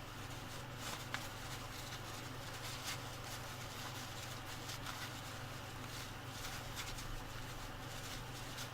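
Steady low electrical hum with faint scattered clicks and light scraping from small hand work.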